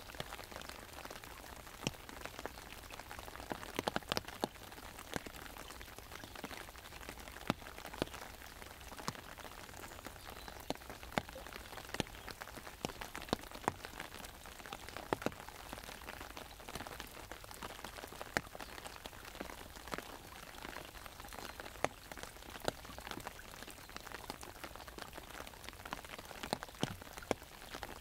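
Rain falling on an umbrella: a steady patter with frequent, irregular sharp taps of single drops hitting the canopy.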